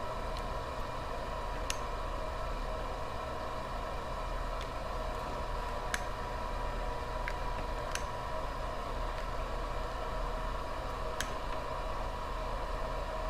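Steady low electrical hum and hiss, with a few light, sharp clicks scattered through it.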